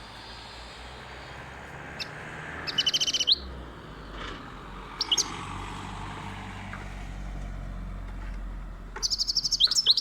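European goldfinch singing in short bursts of fast, high twittering notes: one about three seconds in, a brief one around the middle, and a quick run near the end. A steady low background noise runs under it.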